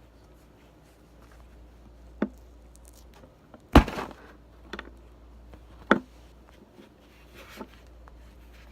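Plastic knife cutting and tapping on a bar of soap: a handful of scattered short knocks, the loudest just before the middle.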